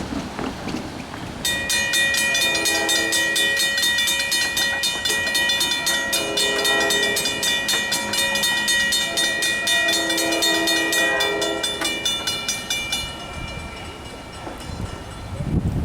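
Grade crossing bell ringing rapidly, about four strikes a second, while an approaching NJ Transit train sounds its horn in several long blasts; both stop about thirteen seconds in.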